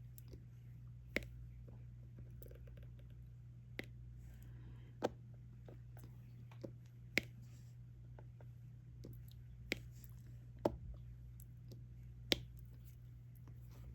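Diamond painting pen placing resin drills on the canvas: sharp little taps and clicks, about eight of them at uneven gaps of a second or two, over a steady low hum.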